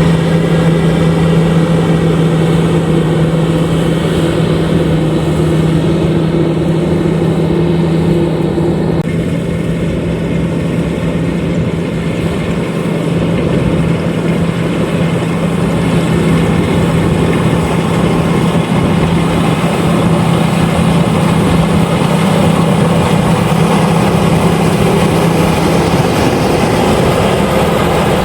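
LOVOL RG130EVO combine harvester running steadily, a loud engine and machinery drone with a constant low hum. One of its higher tones drops out about nine seconds in.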